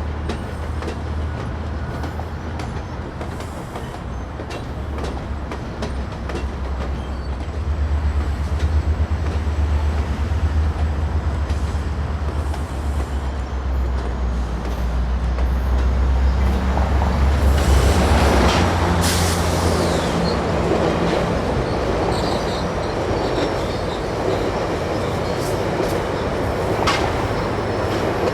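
GO Transit F59PH diesel-electric locomotive running with a train: a deep, steady engine rumble for most of the first two-thirds. After that, rushing wheel-and-rail noise grows, with sharp clicks from the wheels over the rail joints.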